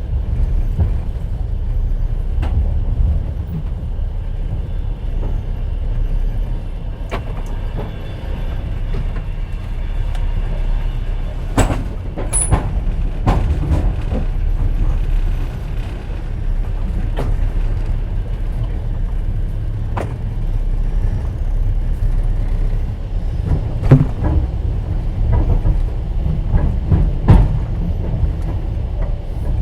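Inside a moving passenger train's open-plan sleeping carriage: a steady low rumble of the running train with irregular clicks and knocks of the wheels and carriage rattling over the track. A brief high squeak comes about 12 seconds in.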